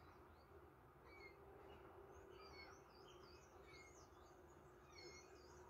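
Near silence with faint, scattered bird chirps, many short calls through the whole stretch, over a faint steady hum.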